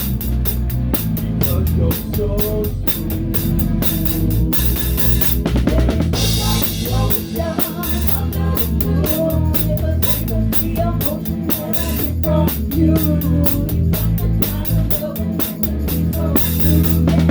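Live rock band playing, with the drum kit close to the microphone: steady kick, towel-damped snare and cymbal strokes over bass and guitar. About five seconds in, a quick run of drum hits leads into a cymbal crash.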